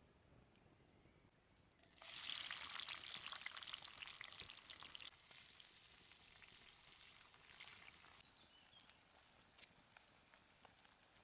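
Sizzling and crackling as something hits a hot pan, starting suddenly about two seconds in. It is strongest for about three seconds, then slowly dies down to a faint sizzle.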